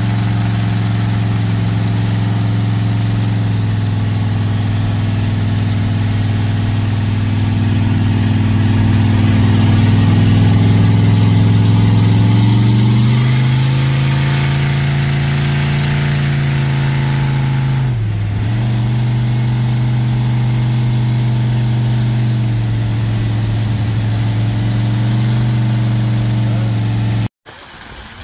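Supercharged small-block Chevy V8 in a hot-rod Ford coupe, heard from inside the cabin at a steady highway cruise. Its note rises as the revs climb about halfway through, drops briefly and recovers, then cuts off abruptly near the end.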